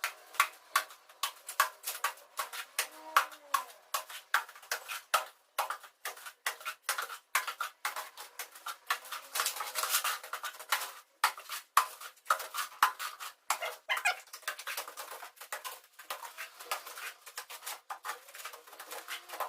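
Irregular tapping and scraping clicks of a trowel working cement mortar, several a second with uneven spacing.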